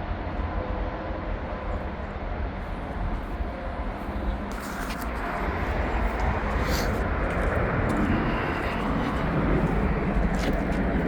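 Low outdoor rumble of a passing vehicle that swells and grows louder from about halfway through, with a few light clicks.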